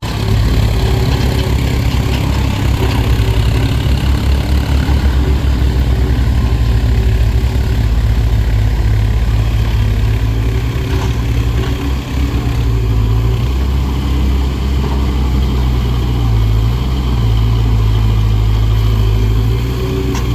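Loud diesel engine running steadily at low revs, a deep even rumble that holds throughout.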